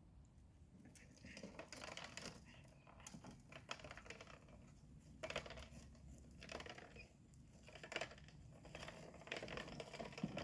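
Toy tractor rattling and clicking as it is pushed across the floor, in about six short, uneven spells with pauses between.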